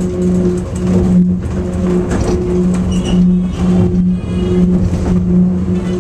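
Airport people-mover train running between stations, heard from inside the car: a steady rumble of the ride with a low electric motor hum that pulses on and off.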